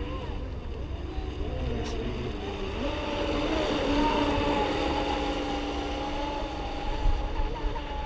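Brushless electric RC racing boats running flat out across the water, their motors whining with a wavering pitch that steps up and grows louder about three seconds in.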